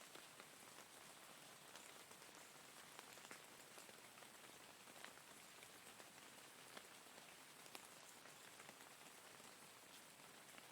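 Steady rain, heard quietly: an even hiss with scattered individual drops ticking through it.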